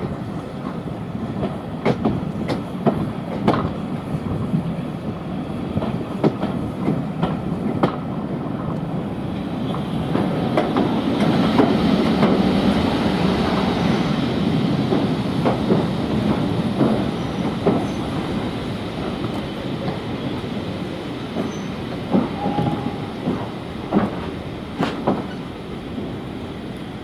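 Train running along the track, its wheels clicking over rail joints at irregular intervals over a steady rumble. The rumble swells to its loudest about halfway through and then eases off.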